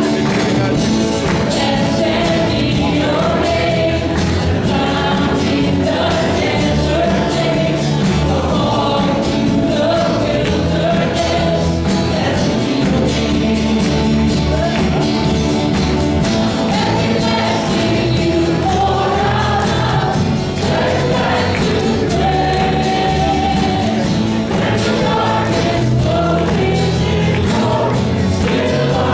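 Church worship team singing a gospel song as a choir over instrumental accompaniment.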